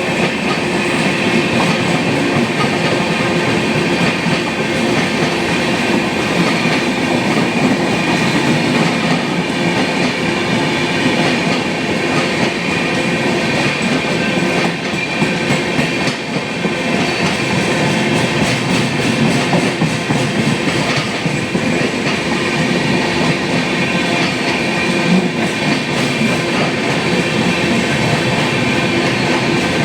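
Indian passenger express train running steadily, its coaches' wheels clattering continuously over the rail joints.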